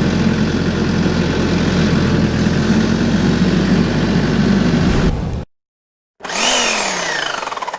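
An engine running steadily at a constant speed, cut off abruptly about five seconds in. After a short gap comes a falling whine that drops in pitch over a second or two.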